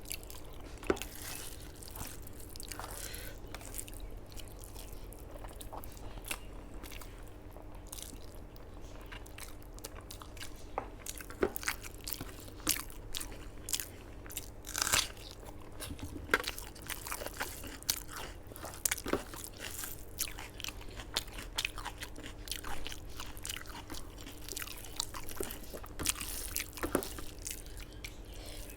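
A person eating close to the microphone: chewing with irregular crunchy bites and clicks, over a faint steady hum.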